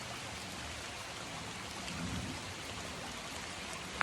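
Steady rush of a stream running high after heavy rain.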